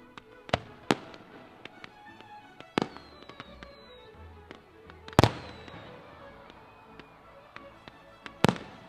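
Fireworks exploding: five sharp bangs, the loudest about five seconds in, among many smaller pops and crackles, with a falling whistle after the third bang. Music plays underneath.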